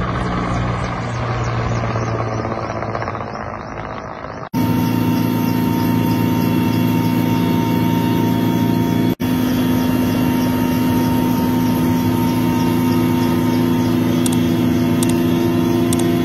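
Firefighting helicopter's rotor and turbine engine running steadily, heard across several spliced shots: the sound changes abruptly about four and a half seconds in and drops out for a moment around nine seconds.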